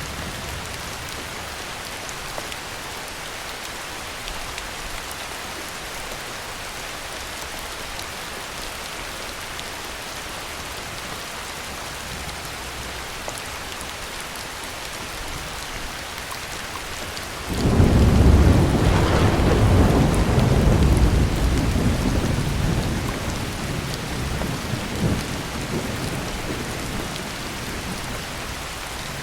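Steady heavy rain hissing, with a loud rolling thunderclap breaking in suddenly about two-thirds of the way through and rumbling away over several seconds.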